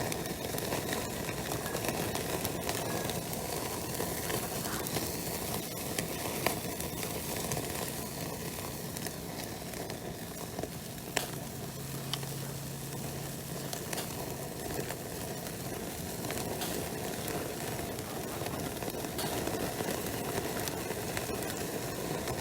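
Wood fire burning with a steady hiss and scattered sharp crackles and pops.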